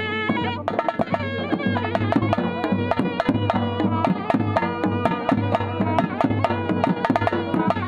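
Traditional folk music: fast, steady drumming under a wavering melody played on a reedy wind instrument.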